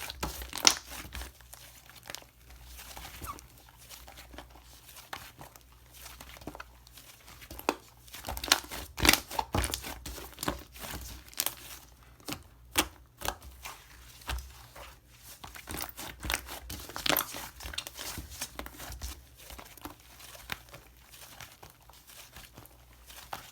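Slime being squished and stretched by hand, giving irregular sticky crackles and pops, some sharper than others.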